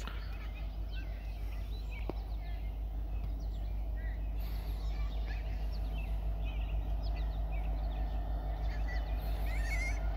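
Distant diesel freight locomotives rumbling as the train approaches, growing slowly louder, with songbirds chirping and trilling over the top.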